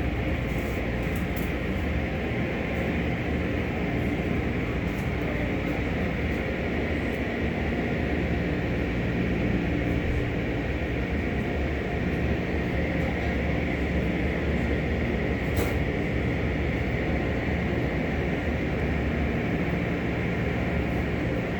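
Belanger conveyor car wash tunnel equipment running, a steady mechanical hum and rush with a few faint clicks.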